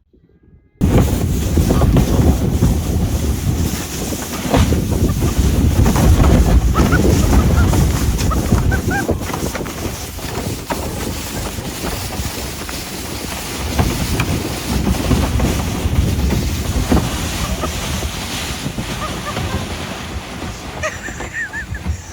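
Wind rushing over the microphone together with a steady, rumbling scrape of a kayak hull being towed fast over snow and dirt. It starts suddenly about a second in.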